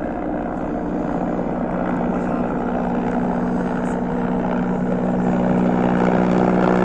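Helicopter running, a steady droning hum that grows gradually louder as it nears.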